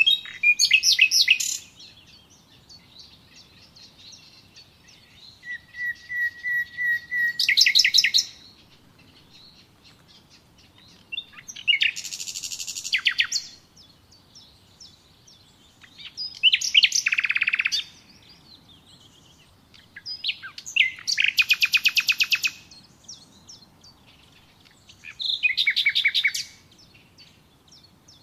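A songbird singing the same kind of song phrase over and over, one every four to five seconds. Each phrase is a couple of seconds of rapid trills, and one opens with a steady buzzy trill that jumps up into the rest of the song. Fainter chirps from other birds fill the gaps.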